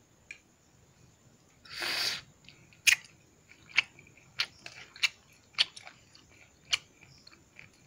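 Close-up mouth sounds of a man biting and chewing a piece of chicken: a brief breathy hiss about two seconds in, then a string of sharp, wet smacks and clicks, roughly one or two a second.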